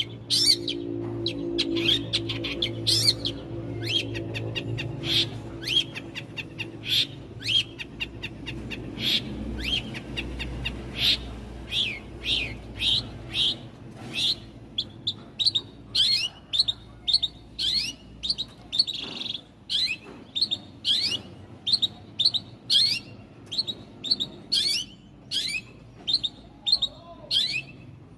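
A small songbird chirping over and over: short, sharp, falling notes, a little under two a second at first and coming faster in the second half. A low steady hum runs underneath during the first half.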